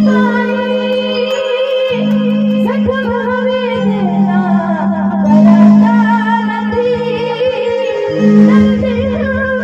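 Live garba music over a PA sound system: a woman singing long held notes that waver in pitch, over a steady low drone-like accompaniment.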